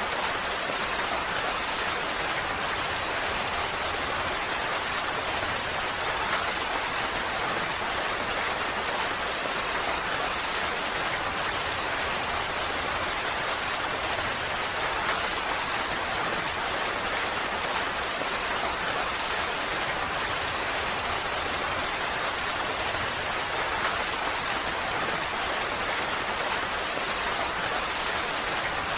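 Steady rain falling, an even hiss of many drops with a few faint individual drip ticks.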